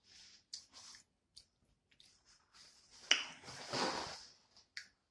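Close-miked mouth sounds of eating rotisserie chicken: chewing and lip-smacking with small wet clicks, then a louder noisy rush lasting about a second and a half, about three seconds in.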